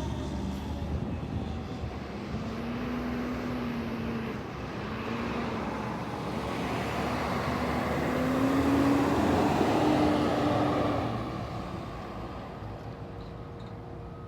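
Road traffic: a motor vehicle passes with engine and tyre noise, loudest about nine to ten seconds in, then fading away.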